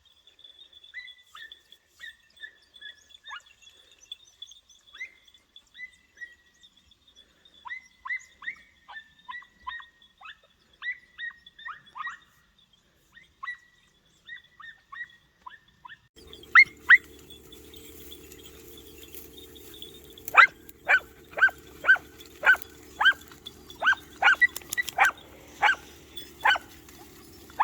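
Podenco puppies giving tongue on a rabbit trail: repeated high-pitched yelping barks, scattered and fainter at first, then louder and quicker at about two a second from about 20 s in, over a steady background noise that starts suddenly about 16 s in.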